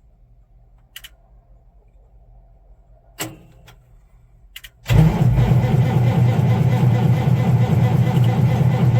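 A few light clicks, then about five seconds in the starter of an Allis-Chalmers 200's diesel engine begins cranking, loud and rhythmic. The engine is not catching on a failed cold start in frost.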